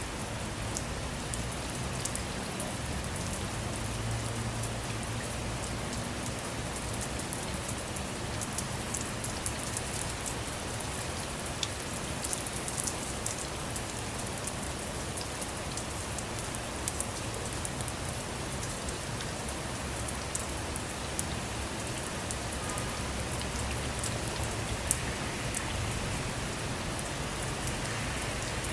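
Steady rain falling on a car, a dense hiss with many sharp individual drop taps on the roof and windows over a low rumble.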